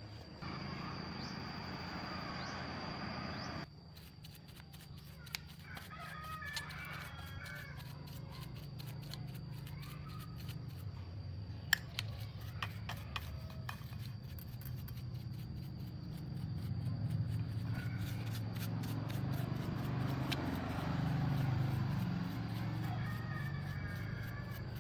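Chickens clucking in the background, with scattered sharp clicks and light knocks over a low steady hum.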